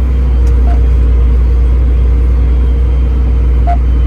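Tractor engine running steadily, heard from inside the cab as a deep, even drone. Two short faint beeps sound, under a second in and again near the end.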